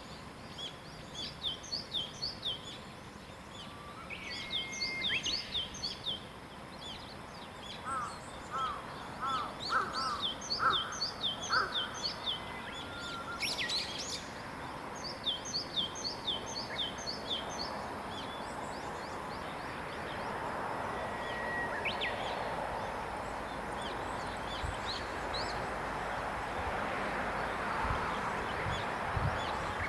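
Wild birds singing in the morning, one repeating runs of quick, high notes over several seconds at a time, with a few lower whistled notes from another bird. In the second half a steady rushing noise rises and carries on under the song.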